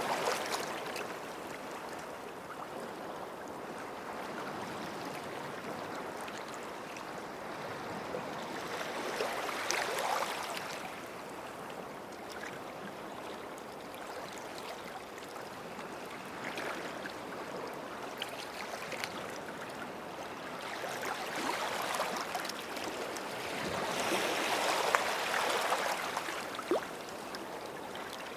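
Small sea waves washing onto the shore and draining back, swelling in slow surges every several seconds, with the biggest wash about 25 seconds in, and a faint fizzing crackle of water running over the shore between surges.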